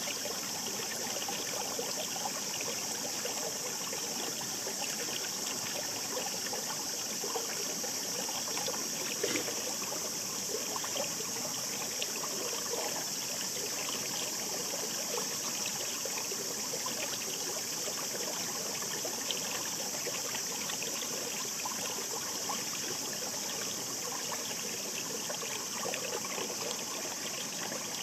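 A shallow babbling stream: water rushing steadily, with small splashes and gurgles scattered through it.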